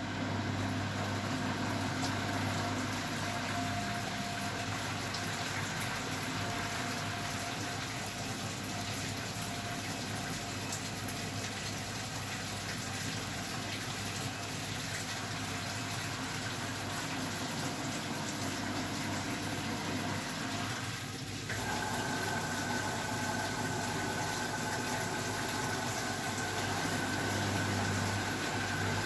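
Beko WML 51211 EL+ washing machine running with water moving through it, over a steady low hum. About two-thirds of the way in the sound shifts briefly, and a steady high whine sets in.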